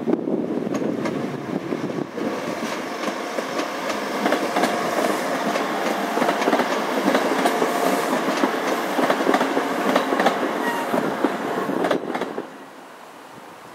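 Transport for Wales diesel multiple unit passing close by, with a steady rumble and rapid clicks of its wheels over the rail joints. The sound drops away sharply near the end.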